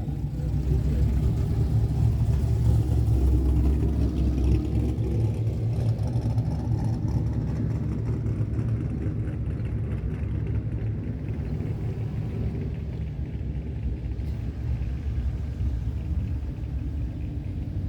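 Low, steady rumble of a car engine, loudest over the first few seconds and then slowly fading.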